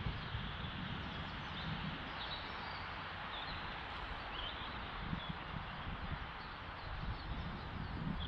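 Open-air ambience: a steady rushing hiss with an uneven low wind rumble on the microphone, and a few faint, brief bird chirps now and then.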